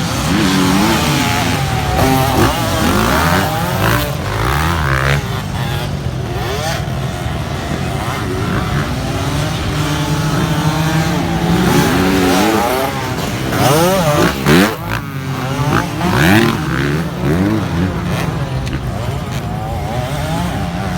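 Dirt bike engines racing on a motocross track, revving up and down over and over.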